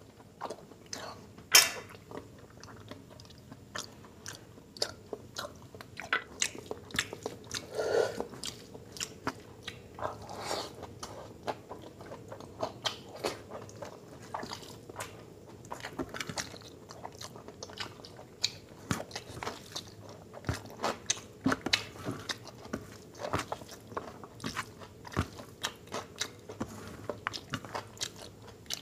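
Eating sounds of a man chewing mouthfuls of rice and mutton curry eaten by hand: many short wet smacks and clicks, one sharper and louder about one and a half seconds in.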